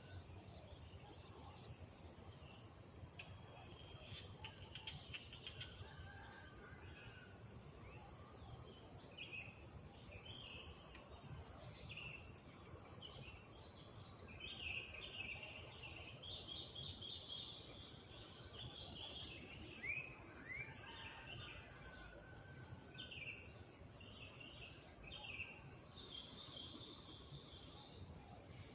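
Village morning ambience: small birds chirping and twittering on and off, over a steady, high-pitched drone of insects.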